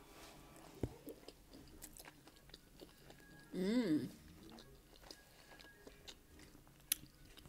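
A person chewing a mouthful of pizza close to the microphone, with small wet mouth clicks and smacks. About halfway through comes a short hum of the voice.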